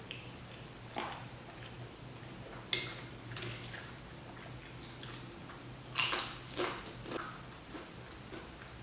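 Close-miked eating: scattered bites and chewing of ghost-pepper instant noodles with potato chips, a handful of short sharp sounds with the loudest about six seconds in.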